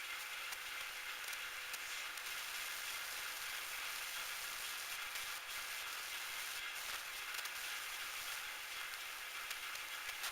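Metal lathe running steadily: a constant hiss with a faint, even hum underneath and a few light ticks.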